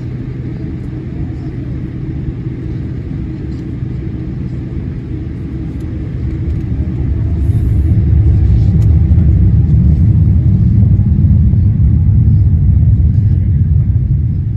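Boeing 787-8 cabin rumble during taxi: a steady low drone of the engines and rolling gear with a low hum, growing clearly louder about seven seconds in as the jet picks up power and speed.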